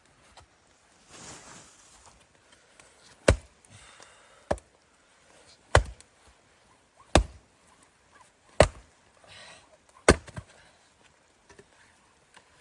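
Wood being chopped: six sharp blade strikes into wood, evenly paced about a second and a half apart, starting a few seconds in.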